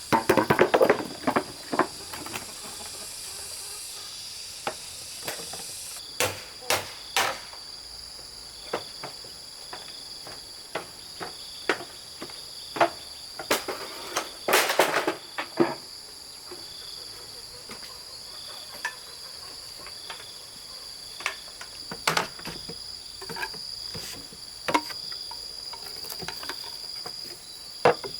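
Steady high-pitched chirring of crickets, with scattered sharp knocks and two short bursts of clattering, from bamboo being cut and worked.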